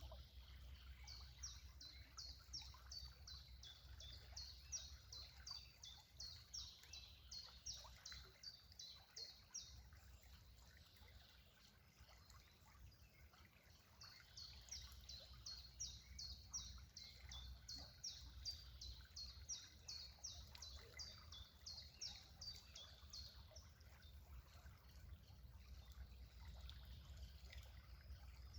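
A songbird singing long runs of rapid, high, repeated chirps, about three or four a second, in two long bouts with a pause between them and a new bout starting near the end, over a faint low rumble.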